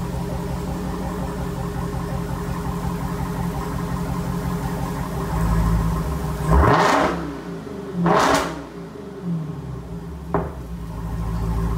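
Dodge Hellcat's supercharged 6.2-litre V8 idling steadily, blipped into two short revs about six and a half and eight seconds in, with a smaller blip near ten seconds.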